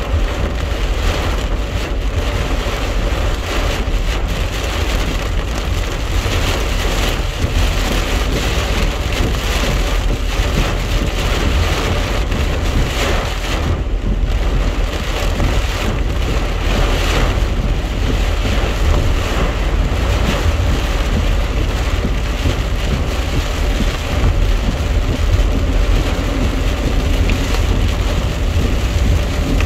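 Heavy rain pelting the roof and windshield of a moving car, heard from inside the cabin as a steady hiss, over a continuous low rumble of road noise.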